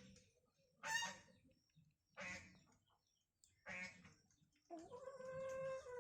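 An animal calling: three short calls about a second and a half apart, then a longer, steadier call near the end.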